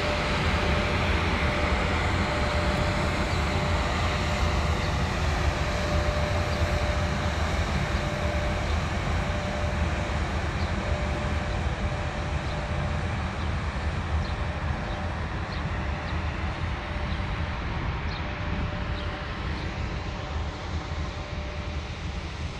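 Long freight train of open-top gondola wagons rolling past: a steady rumble of wheels on rail with a thin, steady high tone, slowly easing off near the end.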